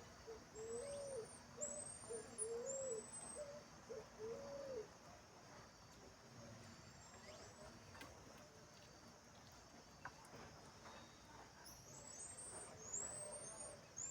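Faint animal calls: about five low, cooing bird hoots in the first five seconds, and short thin high-pitched whistles sweeping up and down, a few near the start and more near the end, typical of marmoset calls.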